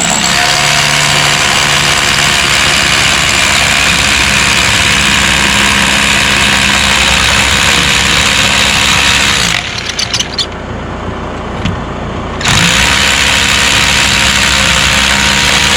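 DEWALT D25263K SDS hammer drill running in hammer-drill mode, boring into a concrete slab. It stops for about three seconds roughly two-thirds of the way through, then starts again.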